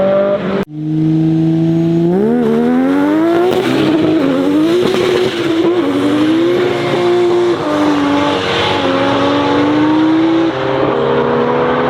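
Car engine revving hard at high rpm. There is an abrupt cut about half a second in, then the pitch climbs and wanders up and down for several seconds before settling into a steadier high note.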